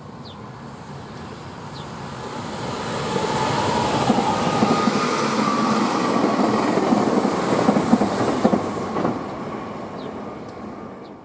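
Electric commuter train passing at speed, growing louder over about three seconds and fading again near the end, with wheels clattering over the rail joints.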